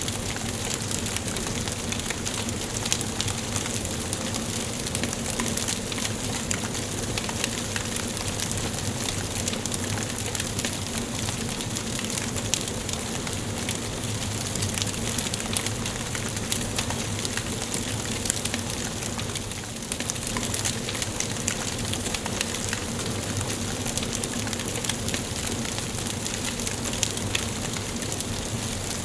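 Wood fire burning in a fireplace: a steady hiss dotted with many small, sharp crackles and pops from the burning logs.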